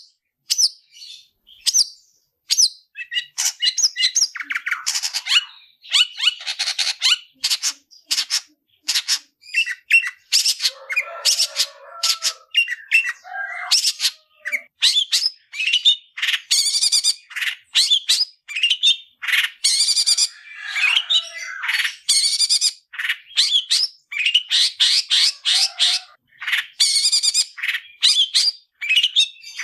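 Long-tailed shrike (cendet) singing a continuous, rapid song of short, harsh chattering and squawking notes, with some lower rasping notes around the middle.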